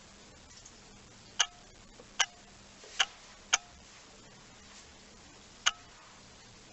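Five sharp knocks at uneven intervals, each with a brief ringing tone.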